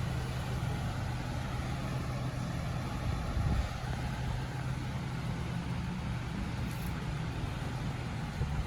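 A Nissan 350Z's V6 engine idling steadily, a low even hum with a steady hiss over it.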